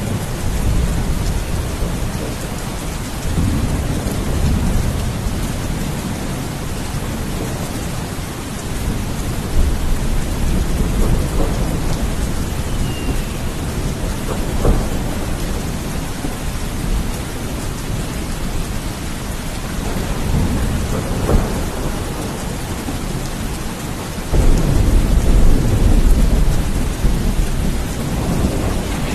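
Steady heavy rain with rolling thunder rumbling through it. A louder, deeper thunder roll comes in near the end.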